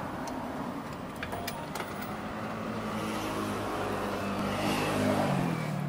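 A motor vehicle's engine running steadily, growing louder to a peak about five seconds in, with a few light clicks between one and two seconds in.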